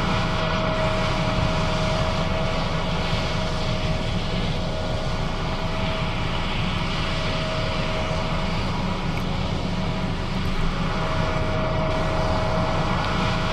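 John Deere S660 combine running steadily while harvesting soybeans: a constant engine and machinery drone with a steady whine that fades out for a couple of seconds past the middle and returns.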